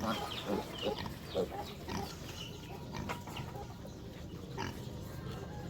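Pigs grunting in many short calls, busiest in the first two seconds, then fewer and fainter.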